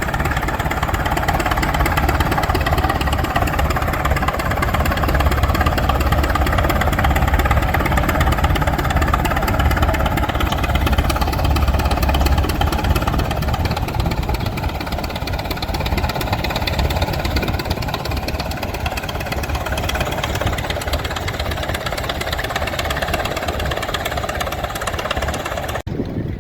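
Engine of heavy machinery running steadily, then dropping off suddenly near the end.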